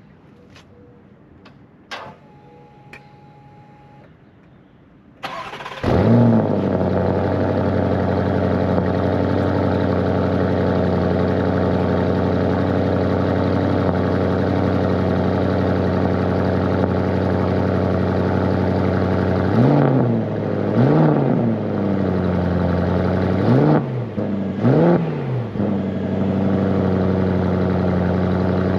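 A few faint clicks and a short tone, then about five seconds in the Porsche Cayenne GTS Coupe's twin-turbo 4.0 V8 cranks and fires on a cold start with a brief rev flare, settling into a steady fast cold idle. Later it is blipped in four short revs, rising and falling each time.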